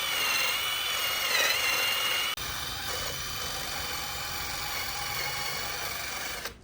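A small power tool whining steadily, its pitch dipping briefly about a second and a half in. Partway through, the sound shifts abruptly to a quieter, lower running tone, and it cuts off sharply near the end.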